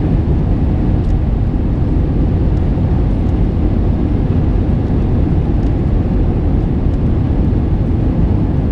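Steady rumble of airflow and engine noise inside the cabin of an Airbus A321 airliner in flight, deep and even with no change.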